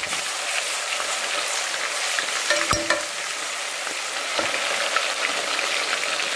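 Garlic and ginger paste sizzling in hot oil in a stainless steel pot, stirred with a wooden spatula: a steady crackling hiss with small clicks, and one sharper knock a little under three seconds in.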